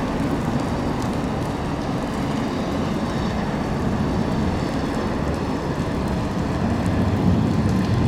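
Heavy rain coming down steadily, an even hiss and patter with no let-up.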